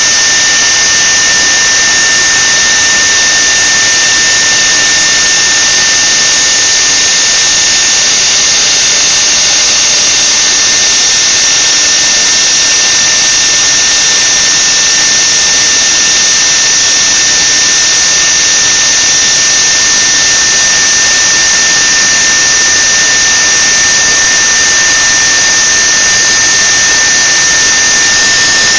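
CNC machine running steadily: a high-pitched whine held on one pitch over a loud hiss, with no change in speed.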